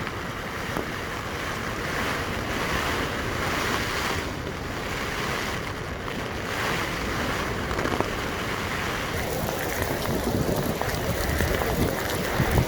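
Storm wind and heavy rain: a steady rushing that swells and eases every couple of seconds, with wind buffeting the microphone more strongly near the end.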